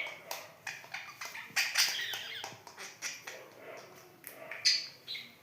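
Budgerigar chattering in a series of short, scratchy chirps and clicks, loudest about two seconds in and again near the end.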